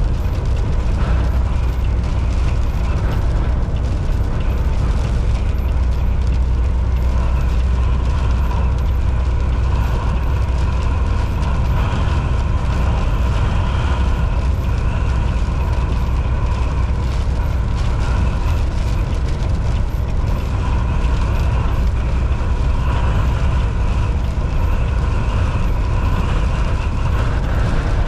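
Volvo VNL 760 semi truck driving at highway speed: a steady, unbroken drone of engine and road noise with a deep low rumble.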